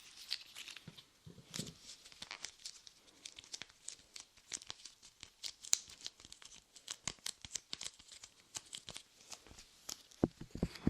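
Soft light clay being pressed and pulled on a microphone ear, giving a dense, irregular run of small sticky crackles and pops. Louder, fuller handling noises start near the end.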